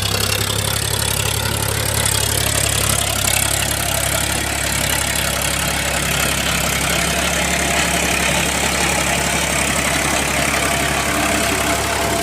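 Powertrac Euro 42 Plus tractor's diesel engine running steadily with an even low hum.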